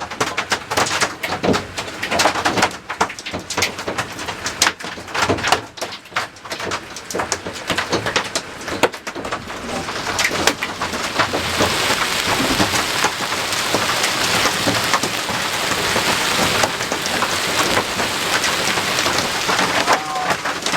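Large hailstones pelting down hard in a storm. Separate sharp cracks of stones striking surfaces come first, and about halfway through it thickens into a denser, steady pelting.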